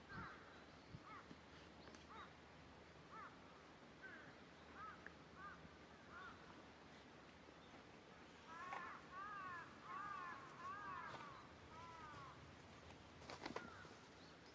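Faint bird calls outdoors: short, arching chirps repeating throughout, with a quicker run of them about nine to eleven seconds in. A couple of sharp clicks come near the end.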